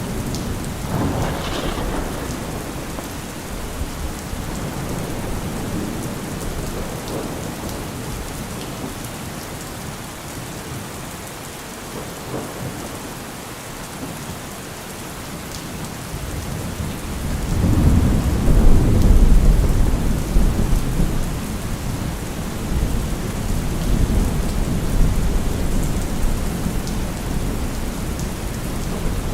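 Steady rain falling, with rolling thunder: a low rumble near the start and a louder, longer roll of thunder a little past the middle.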